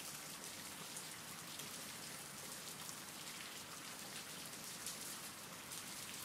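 Steady rain falling, soft and even, with faint scattered drop ticks.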